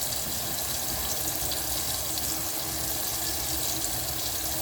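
Tap water running steadily into a sink as hands are rinsed under the stream.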